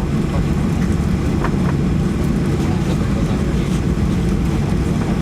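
Steady, even low rumble of a Boeing 737-800's CFM56-7B jet engines running at low power.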